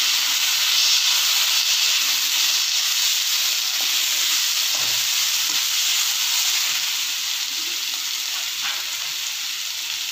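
Chopped cabbage, carrot, onion and beans, with chilli and soy sauce, stir-frying in oil in a kadai while being mixed with a slotted spoon: a steady sizzle that eases slightly toward the end.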